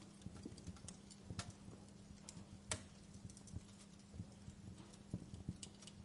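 Wood fire crackling softly, with scattered irregular pops and one sharper pop a little under three seconds in, over a faint steady low hum.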